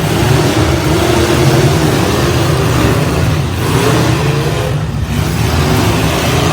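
Demolition derby truck engines running hard and revving, the pitch wavering up and down.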